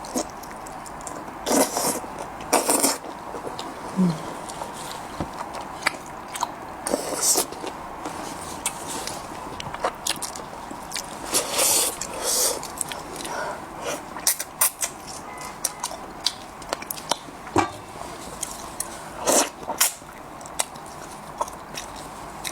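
Close-miked wet chewing of braised monkfish fin: many small mouth clicks and smacks, with a few louder, longer bursts scattered through.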